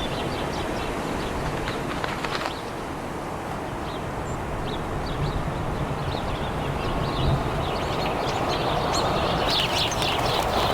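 Birds chirping, with many short high calls scattered throughout, over a steady rushing background noise that grows louder over the last few seconds.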